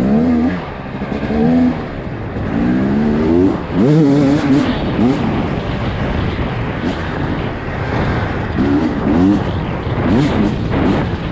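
Dirt bike engine being ridden, revved up and down in repeated short blips.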